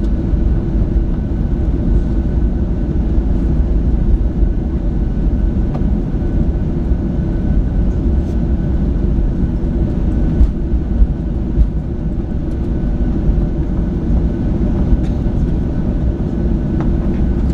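Steady low rumble of a Boeing 737-700's engines and airflow heard inside the passenger cabin, with a faint steady whine and a few light clicks.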